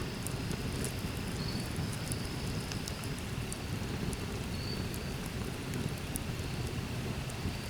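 Outdoor woodland ambience: a steady low wind rumble on the microphone, scattered faint high ticks, and a short high chirp twice, a few seconds apart.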